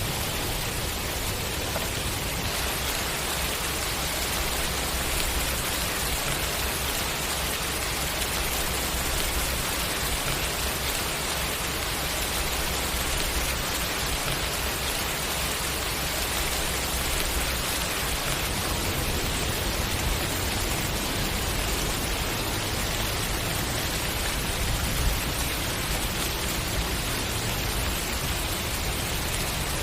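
Steady rainfall: an even hiss of rain falling on a surface.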